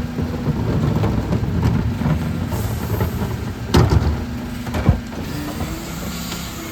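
Dennis Elite refuse truck running steadily, with sharp knocks about four seconds in and again near five seconds.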